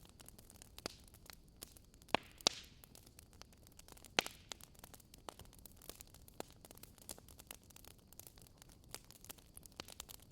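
Fireplace fire crackling: irregular small snaps over a soft hiss, with a few louder pops about two, two and a half and four seconds in.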